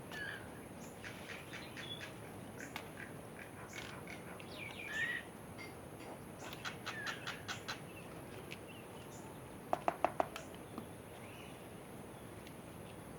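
Birds chirping and calling, short scattered notes and clicks, with a quick run of about five loud harsh notes about ten seconds in.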